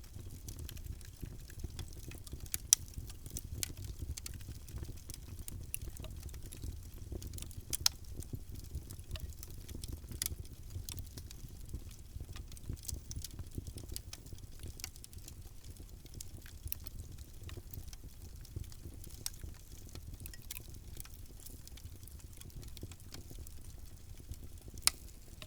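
Wood fire crackling in a fireplace: a steady low rumble of flames with scattered sharp pops, a few louder ones about three seconds in, about eight seconds in and near the end.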